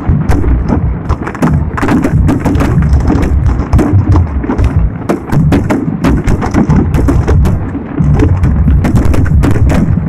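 Fireworks bursting in a dense run of sharp bangs and crackles, several a second, over a continuous low rumble.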